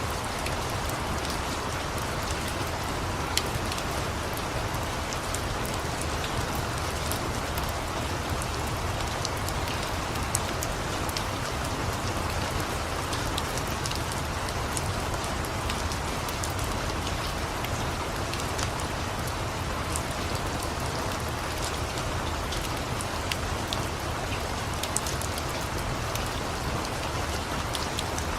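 Steady rain falling, with scattered sharp crackles and pops from a wood fire mixed in.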